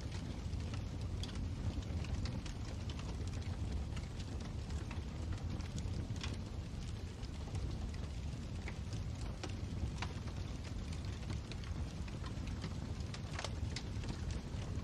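Fireplace fire burning steadily: a low rumble of the flames with scattered crackles and pops of the burning wood.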